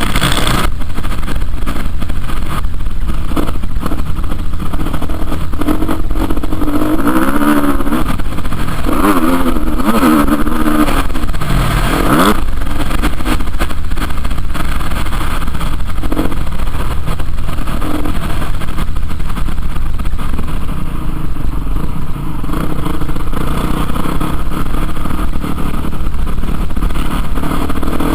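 Motocross bike engine revving up and down, its pitch rising and falling repeatedly as the throttle is opened and closed, over a steady low noise.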